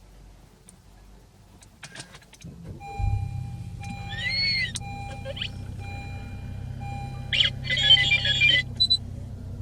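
Honda Civic FK7's 1.5-litre turbo four-cylinder engine starting about three seconds in, then idling with a steady low hum. A few clicks come just before it, and dashboard beeps and electronic chimes and tones sound over the idle.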